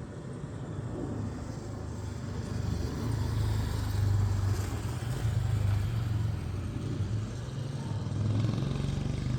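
Jet engines of a Boeing 737-800 (CFM56-7B), a low rumble that grows louder about three seconds in and stays loud.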